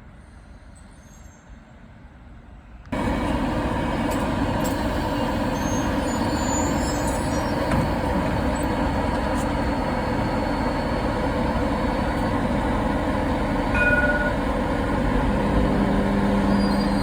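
BN coastal tram running noise: a steady rumble with a level electrical hum that starts suddenly about three seconds in. Near the end a low hum comes in and grows louder.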